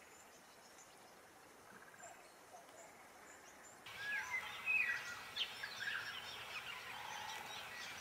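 Wild birds calling: for the first few seconds only faint, scattered high chirps over a soft outdoor hiss, then from about four seconds in a busy run of many short, quick chirps and whistles, overlapping and much louder.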